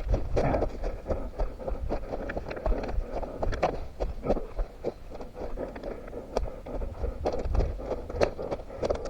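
Running footsteps on forest ground with rustling and scraping underfoot, a string of irregular thuds.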